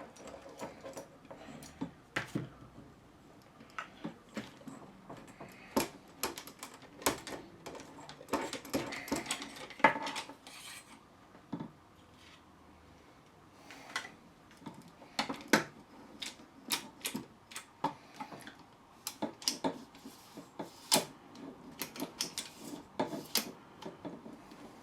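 Irregular clicks, taps and light rattles of the hard plastic and metal parts of a suitcase's telescopic handle mechanism being handled and worked apart, with a few sharper knocks, the loudest about ten seconds in.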